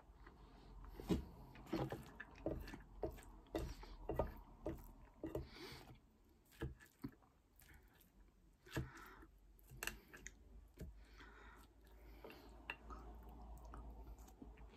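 Close-miked chewing of loaded fries, with irregular wet mouth clicks and smacks. Near the middle comes the sound of a fork picking food off a plate.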